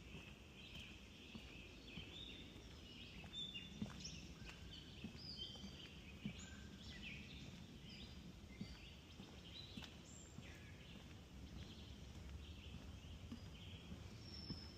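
Many birds chirping and singing faintly, short overlapping calls throughout, with soft footsteps on wooden boardwalk planks.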